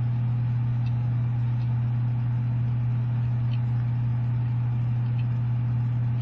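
A steady low hum that does not change, with a few faint light clicks over it.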